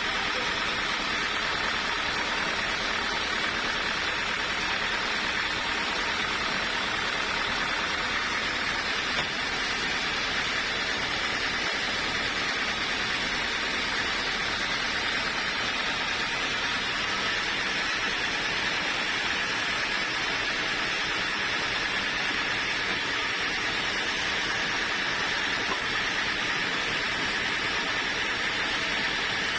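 Steady, unchanging machine noise with a strong hiss, from sawmill machinery running.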